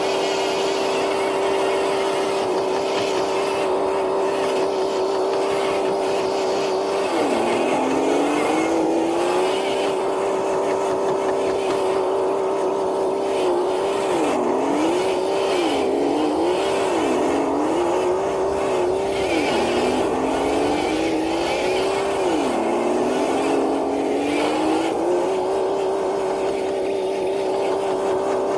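Traxxas TRX4 RC truck's electric motor whining steadily at high speed. Several times the pitch sags and recovers as the motor bogs under the load of dragging the dead sled.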